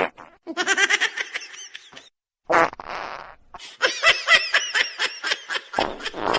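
Quickly cut clips of rapid, pulsing laughter, with a short noisy burst in between.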